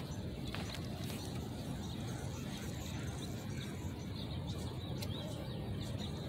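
Steady low outdoor background rumble, with a few faint, short bird chirps, mostly in the second half.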